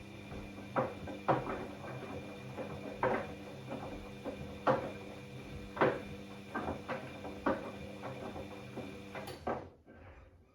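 Bosch Classixx 6 washing machine drum motor running steadily as the drum turns the wet load, with irregular clunks and thuds from the laundry dropping inside the drum. The motor stops about a second before the end, as the drum pauses between tumbles.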